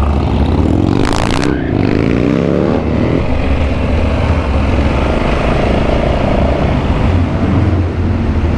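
Motorcycle engine accelerating with a rising pitch, then holding a steady note, over a heavy low rumble of wind on the microphone. A short rush of noise cuts across it about a second in.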